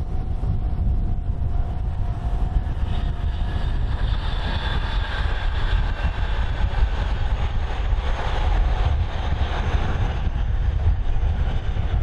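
Tobu Nikko Line electric train running past, its wheel and running noise building about three seconds in and staying strong until near the end, over heavy wind buffeting the microphone.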